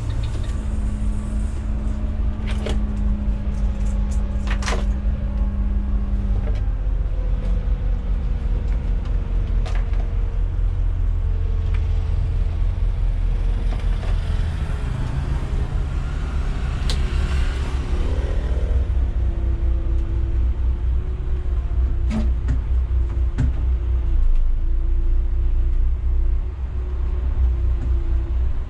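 Intercity coach bus engine running under way, a steady heavy low rumble heard from the driver's seat, its tone shifting a few times, with scattered sharp clicks and rattles.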